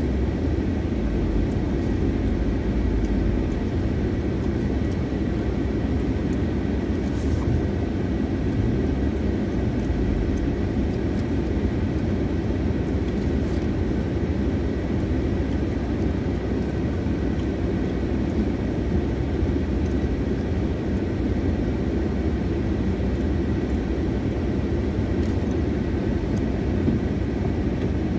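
Steady low drone inside a car's cabin: the engine idling while the car creeps forward and then stands still.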